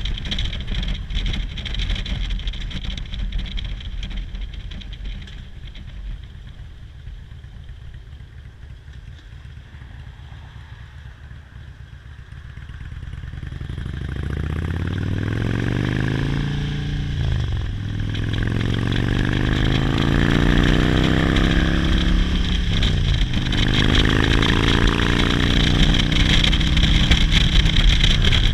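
Motorcycle engine, quiet at first, then accelerating through the gears: its pitch climbs, drops back sharply at two upshifts and climbs again as it gets louder.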